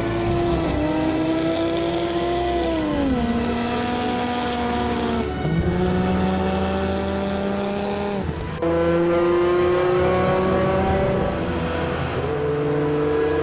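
Car engine accelerating hard through the gears. Its pitch climbs slowly in each gear and drops sharply at each of several gear changes.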